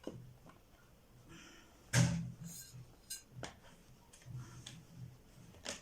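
Scattered clicks and light knocks of shelf-unit parts being handled and fitted together during assembly, with one louder knock about two seconds in.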